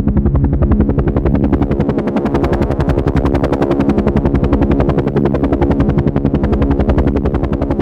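Helicopter running steadily: its rotor beats in a rapid, even pulse over a steady engine hum.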